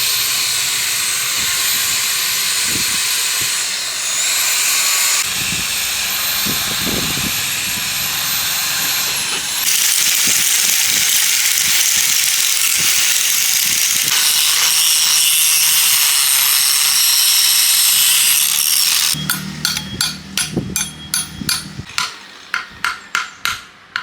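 A power tool working on metal gives a loud, steady hiss through several cut-together stretches. Near the end it gives way to a run of sharp hammer-like taps, about two a second, growing fainter.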